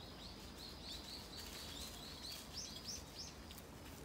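A small bird calling: a rapid series of short, high chirps, about three a second, that stops a little before the end, over faint outdoor background noise.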